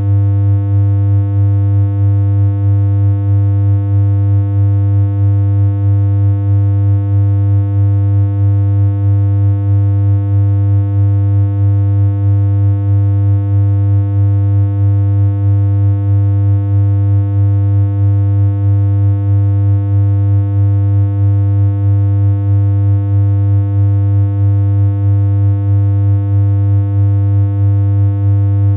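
Synthesized electronic hum: a loud, steady low drone with a stack of higher overtones, holding one pitch without change, its loudness pulsing slightly at a regular rate.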